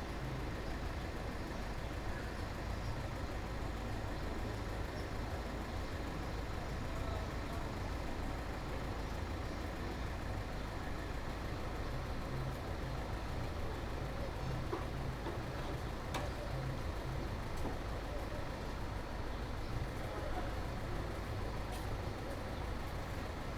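Steady low rumble of road traffic with general city background noise, unchanging throughout, with a few faint clicks.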